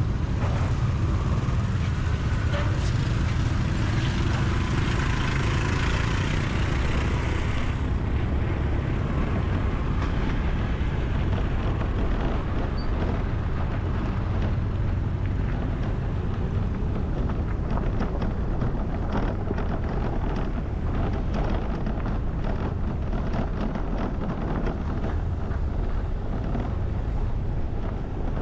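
Steady rumble of road traffic, with vehicles passing.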